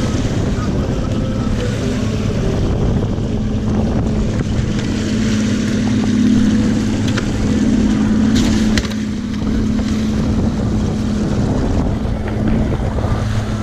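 Boat motor running with a steady hum, with wind on the microphone and a couple of brief clicks midway.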